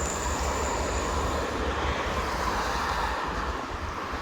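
Steady road-traffic rumble from the toll road, with wind buffeting the microphone.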